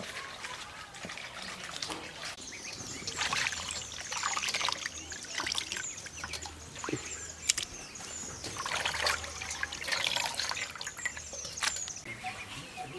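Water trickling and splashing in irregular bursts, with one sharp click about seven and a half seconds in.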